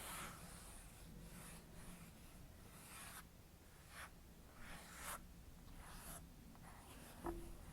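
Fingertips gliding silky primer lightly over skin: faint, soft swishing strokes about once a second, with a small click near the end.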